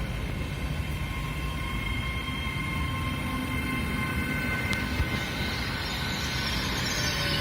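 Hitachi Class 800 IET train running in and slowing as it arrives. Several steady high whines sit over a low rumble, and one tone falls in pitch near the end.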